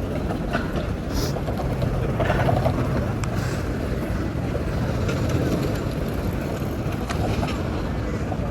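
Steady rumble of city street traffic heard from a moving bicycle.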